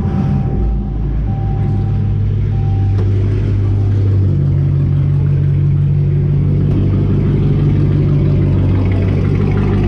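Car engine running at a steady high idle just after a cold start, its note shifting slightly about four seconds in. A short beep sounds three times in the first three seconds.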